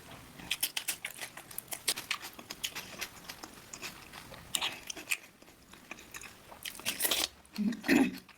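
Close-miked chewing and biting of crunchy food: a quick string of crisp crunches, with louder bites about halfway through and again near the end, then a short hummed 'mm' of enjoyment.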